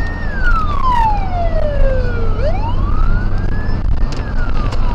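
Police car siren wailing, its pitch sweeping slowly up and falling back about once every four seconds, over a steady low rumble of the moving vehicle.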